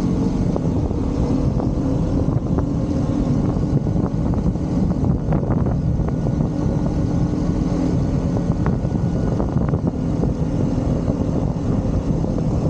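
Motorcycle engine running steadily at cruising speed, heard from the moving bike, with a constant rush of wind and road noise under it.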